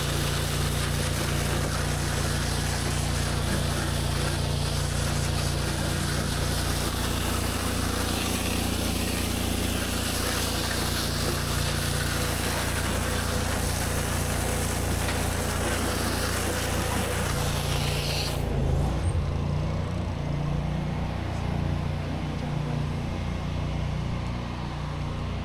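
Pressure washer engine running steadily under the hiss of high-pressure water spraying onto concrete. About three-quarters of the way through the spray stops suddenly, as when the trigger is let go, and the engine keeps running.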